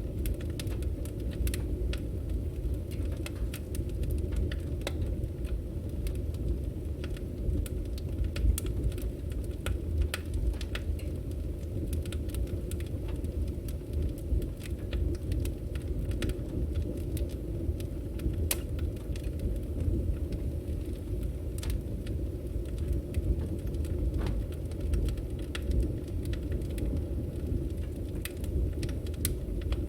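Firewood burning: a steady low rumble from the fire with frequent sharp crackles and pops from the logs, scattered irregularly throughout.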